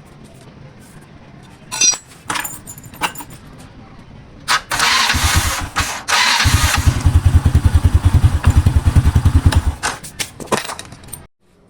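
A few clicks, then the electric starter of a small Honda step-through motorcycle whirs and cranks the single-cylinder engine. The engine catches about six seconds in, runs with a fast even beat for about three seconds, then stops. This is a test of a starter just serviced for grinding, sluggish, weak cranking.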